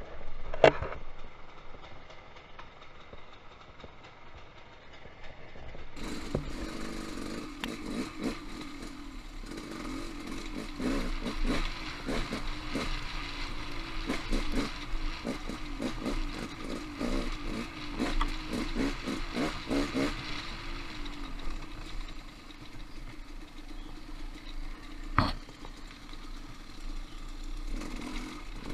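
Dirt bike engine running as the bike rides rough, rocky singletrack, with frequent knocks and clatter from the bike over the rocks. The engine sounds quieter and duller for the first few seconds, then steadier and louder, with one sharp knock right at the start and another near the end.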